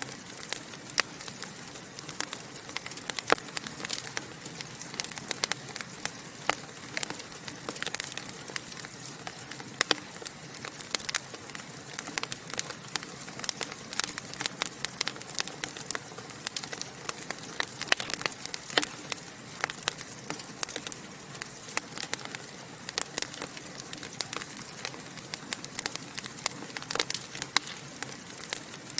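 Wood fire in a fireplace crackling and popping: many sharp, irregular snaps over a steady soft hiss.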